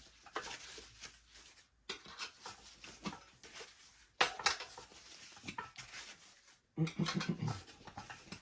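Steel tire irons clinking and scraping against a dirt bike wheel rim in short clusters, as the tire bead is levered over the rim. There is a brief low-pitched sound about seven seconds in.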